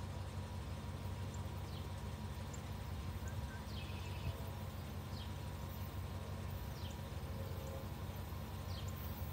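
Small birds chirping: short, high calls that slide downward, scattered about once a second, with a fuller call about four seconds in, over a steady low rumble.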